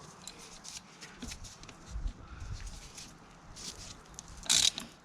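Faint metallic ticks and handling knocks from working a chain riveting tool on a motorcycle chain, with a short loud scrape about four and a half seconds in.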